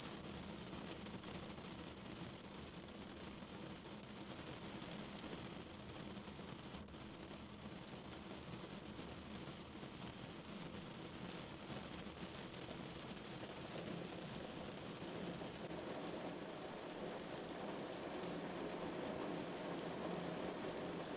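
Steady rain pattering on a car's roof and bodywork, a dense even wash of drops that grows a little heavier and louder in the last third.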